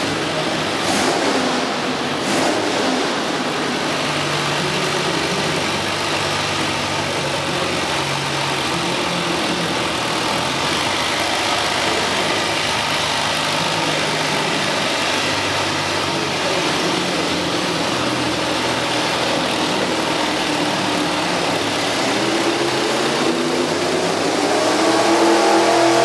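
V8 engine of a minirod pulling tractor running and revving, with two brief sharp cracks in the first few seconds. Near the end it rises in pitch and gets louder as the revs build.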